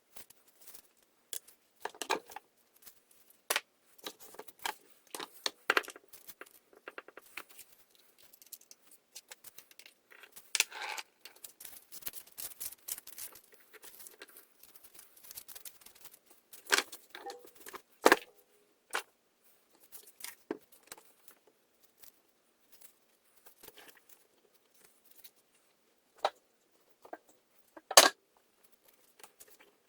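Hand work with small tools and parts on a chainsaw: scattered clicks, taps and rustling, with a sharper knock near the end.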